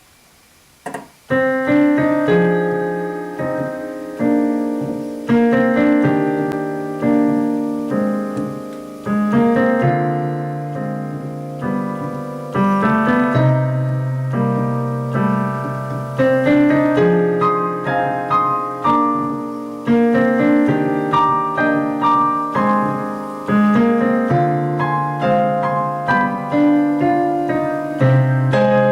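Background piano music: a melody of struck notes over sustained bass notes, starting about a second in after a brief click.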